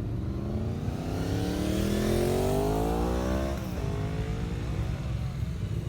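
Motorcycle engine accelerating, its pitch rising steadily for about three and a half seconds, then dropping sharply at a gear change and pulling on. A low engine rumble runs underneath.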